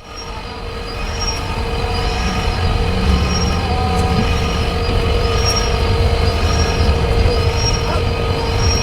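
Truck engine running with a steady whine over a low rumble, and a faint high chirp repeating about once a second.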